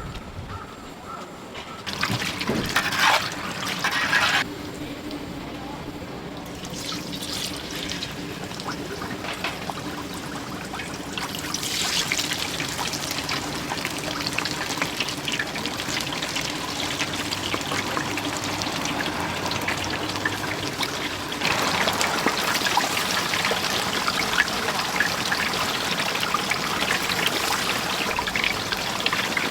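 Battered chicken deep-frying in hot oil: a steady sizzle that grows louder about twelve seconds in and again about twenty-one seconds in.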